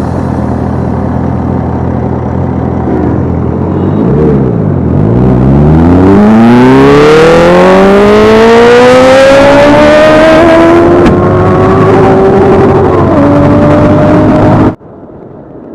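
Sport-bike engine accelerating hard. A steady note dips briefly about four seconds in, then the pitch climbs for several seconds and levels off at high revs, and the sound cuts off abruptly near the end.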